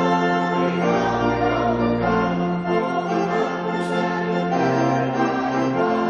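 Choir singing with organ accompaniment, sustained chords changing every second or two over a held bass note.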